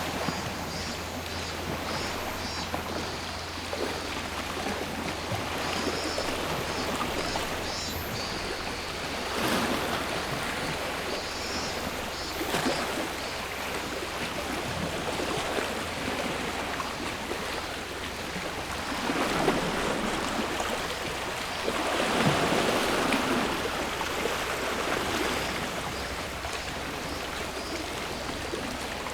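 Sea waves washing onto the shore in a steady rush, with several larger waves swelling and breaking, the biggest about three-quarters of the way in. Cicadas sing in short repeated high pulses in the background on and off.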